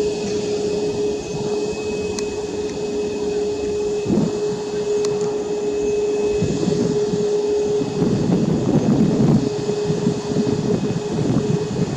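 Boeing 737 MAX 8 on the ground: the steady hum of the airliner with a held tone, and a low rumble that builds from about six seconds in and grows rough and uneven near eight seconds.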